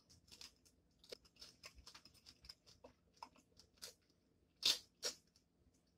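Close-miked chewing of a bite of shrimp: a run of small wet crunches and mouth clicks, then two louder crunches just before the end.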